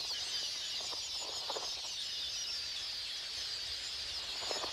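A dense, continuous high-pitched chatter from a large colony of quelea, many birds calling at once, with a few short lower notes scattered through it.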